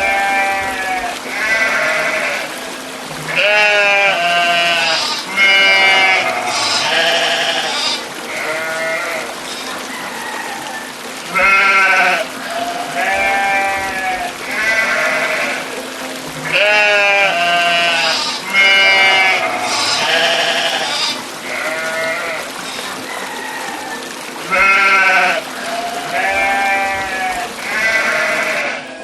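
Sheep bleating: a long run of wavering calls, one after another every second or two and varying in loudness, over a steady low hum.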